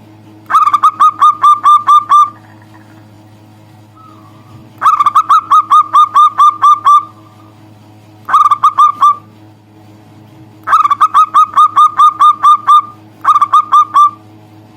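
Zebra dove (perkutut) calling loudly in five bursts of quick, clipped repeated notes, about five a second. The bursts run from under a second to about two seconds long, with short pauses between them, over a faint steady hum.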